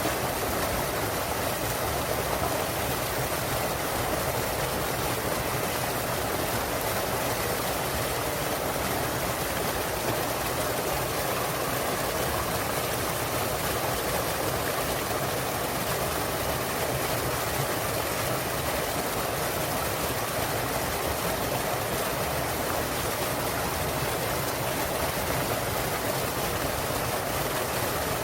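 Small mountain waterfall and stream, water falling and rushing in a steady, even splash.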